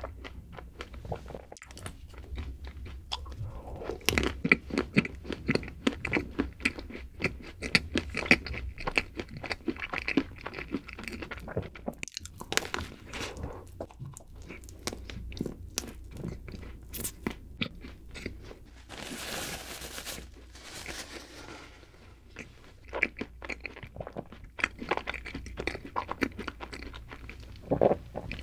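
Close-miked biting and chewing of a chocolate-coated, cream-filled snack cake, with many small crisp crackles from the chocolate shell and soft wet mouth sounds. A brief soft hiss comes about two-thirds of the way in.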